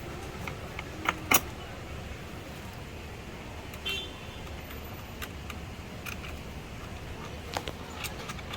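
Scattered sharp clicks and clinks of parts and tools being handled during assembly of a children's ride-on electric motorbike, the loudest pair a little over a second in, over a steady low background hum.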